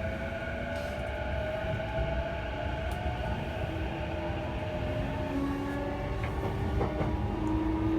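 E233-series electric train running, a steady rumble with motor whine tones that slide in pitch; one whine rises steadily over the last three seconds as the train picks up speed.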